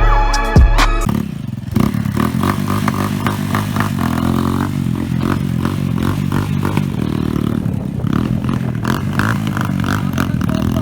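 An engine running steadily, with rattling and clicking over it; it starts about a second in, as music cuts off.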